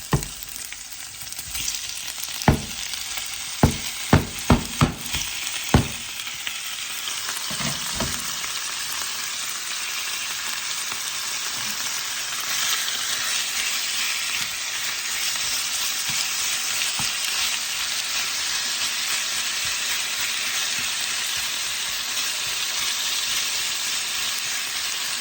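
Sliced chicken frying in hot olive oil with garlic, chili and onion in a pan, sizzling steadily. About seven sharp knocks in the first six seconds, then the sizzle grows a little louder and stays even.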